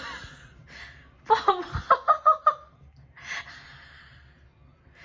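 A person laughing: a quick run of about half a dozen short 'ha' bursts, with breathy exhalations before and after.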